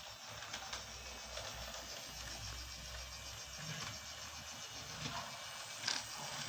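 Freight train running on rails: a steady rolling rush with scattered, irregular clicks of wheels over the track, the sharpest click near the end.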